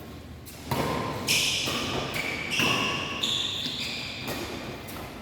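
Badminton rally in a sports hall: a run of sharp racket strikes on the shuttlecock, roughly every half second, echoing off the hall, with sneakers squeaking on the court floor.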